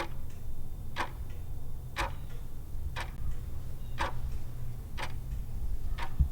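Clock-ticking countdown sound effect, one tick a second, over a steady low hum, marking the time allowed to answer a quiz question.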